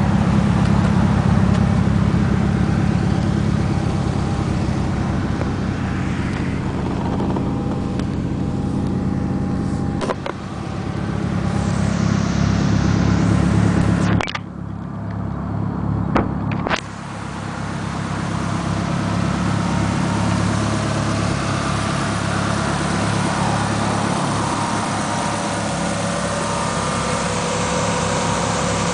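Toyota Supra Mk4's 2JZ twin-turbo inline-six idling steadily. The idle sound drops away for a couple of seconds about halfway through, with a few sharp clicks.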